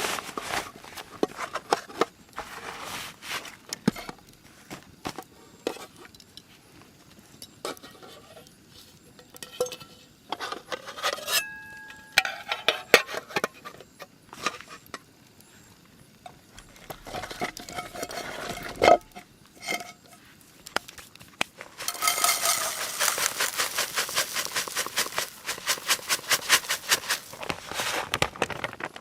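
Cookware and utensils handled, with scattered clinks and knocks, then, about three-quarters of the way in, a fast rhythmic scraping or rubbing, several strokes a second.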